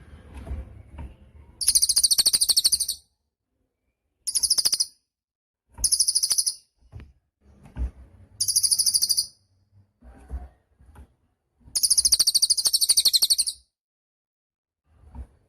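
Cililin bird singing in full voice: five fast, high-pitched trilled phrases, each half a second to two seconds long, with short pauses between them; the longest comes near the end.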